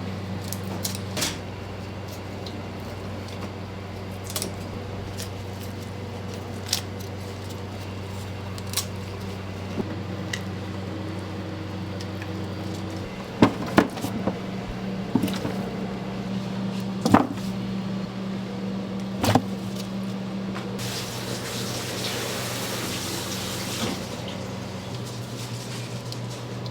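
Steady low machine hum with scattered clicks and knocks of kitchen work, a cluster of louder knocks about halfway through, and a hiss for about three seconds near the end.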